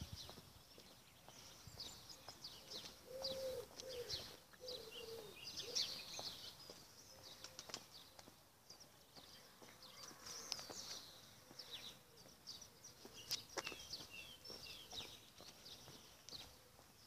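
Faint outdoor birdsong: several small birds chirping and trilling throughout, with a lower warbling call about three seconds in.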